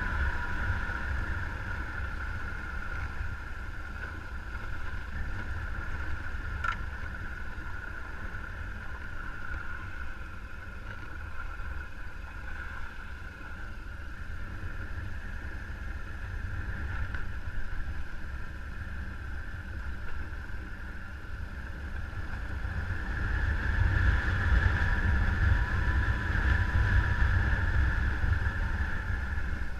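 Motorcycle running along a ride with wind rumbling on the microphone, growing louder for several seconds about two-thirds of the way through.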